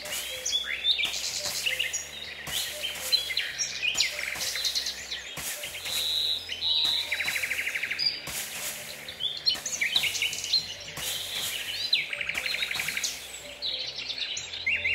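Several birds chirping and singing, with rapid trilling phrases, over quiet background music of low held tones.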